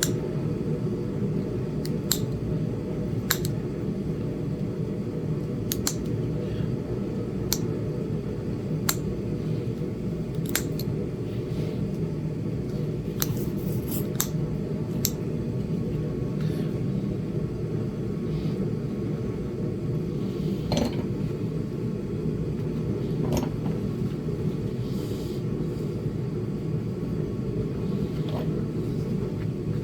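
Sharp clicks of flakes snapping off a small Flint Ridge chert arrowhead as it is knapped, about a dozen at irregular intervals, over a steady low rumble.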